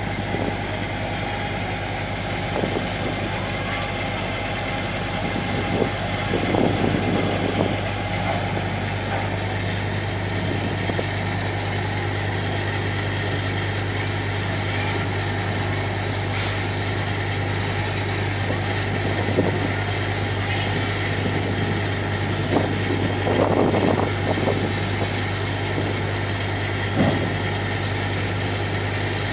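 Car ferry's engines running with a steady low hum, twice briefly louder.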